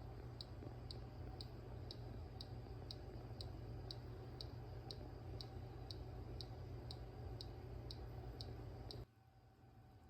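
A small machine running with a steady low hum and a light high tick about twice a second; hum and ticking stop together about nine seconds in.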